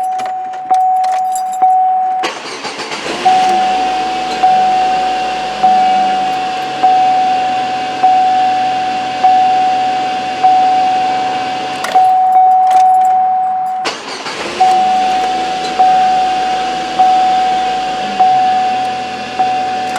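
Car warning chime dinging over and over, about once a second, each ding a single tone that fades before the next one.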